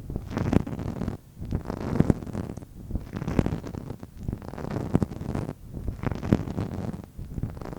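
Close-miked ASMR tapping and rubbing on an object: a steady stream of soft taps, with a louder tap about every second and a half.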